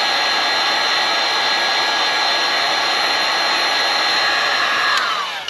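Heat gun blowing hot air steadily with a motor whine, warming the end of a rubber coolant hose to stretch it; about five seconds in it is switched off and the whine falls in pitch as it winds down.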